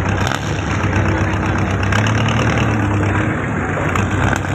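Motor fishing boat's engine running steadily with a low, even hum.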